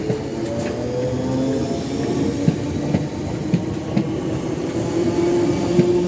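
A train running through a station: a steady mechanical drone of several tones that shift in pitch, with scattered clicks of the wheels going over rail joints.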